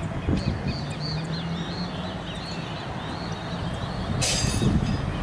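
A bird calling in a quick series of short chirps, several a second, over a steady low rumble; a brief burst of hissing noise comes about four seconds in.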